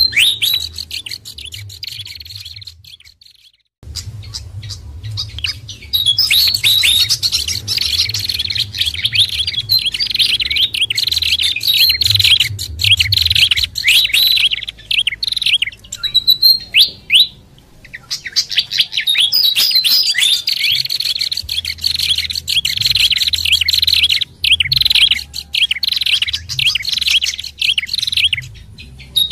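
Bird-lure recording mixing the calls of sikatan kipas (fantail), pelanduk bukit (babbler) and prenjak kepala merah: dense, rapid high chirps and trills, overlapping. They break off briefly about three seconds in, then resume louder, thinning out again for a few seconds past the middle.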